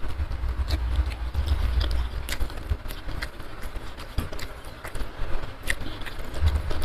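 Close-miked eating sounds: scattered sharp mouth clicks and smacks of chewing, over a low rumble.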